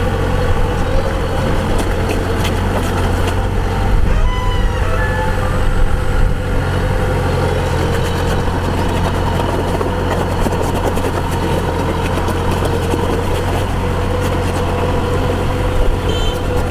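Kubota DC-105X combine harvester's diesel engine running steadily under working load, a low even drone. A few short gliding tones sound briefly about four seconds in.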